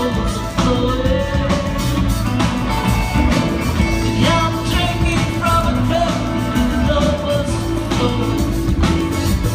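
A live band playing a long instrumental-style passage: melodic lead lines that slide and bend over a steady bass and a drum beat.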